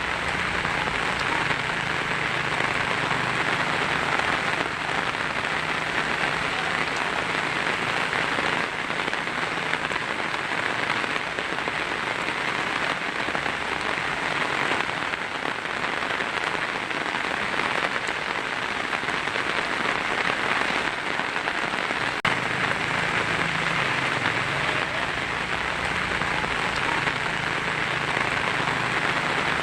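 Heavy rain falling steadily on a tin roof, a dense, even patter with no breaks.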